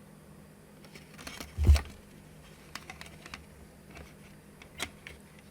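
Scattered light clicks and taps of a circuit board knocking against a 3D-printed plastic case as it is tried in the opening, with one louder knock a little under two seconds in.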